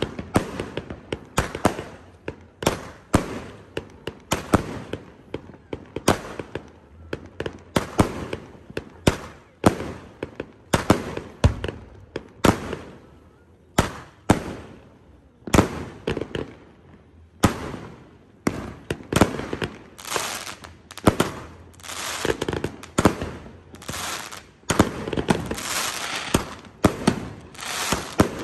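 Voodoo consumer firework cake firing a long sequence of shots, sharp bangs coming about one or two a second. There is a short lull in the middle, then a faster, louder run of bangs near the end.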